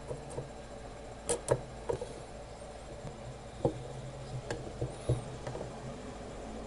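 A handful of sharp light clicks and taps, irregularly spaced, the loudest two close together about a second in, over a faint low hum.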